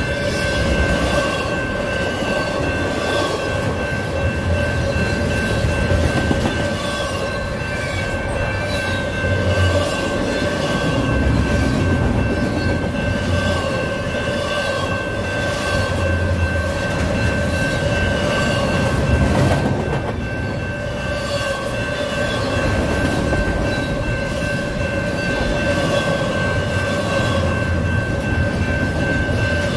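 Double-stack intermodal container cars of a freight train rolling past at speed. Wheels rumble and click over the rail joints at an even pace, with a steady high-pitched tone held over the rumble.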